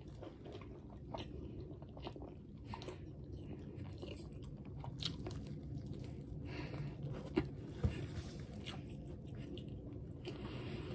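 A person chewing and biting into a soft sub sandwich, close to the microphone, with small mouth clicks throughout and two sharper clicks about seven and a half seconds in.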